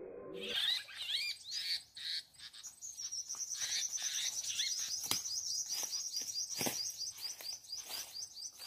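Small songbirds calling: a few quick rising chirps, then a rapid, even series of high, thin notes at about six a second that runs on to the end. A couple of sharp clicks sound about halfway through.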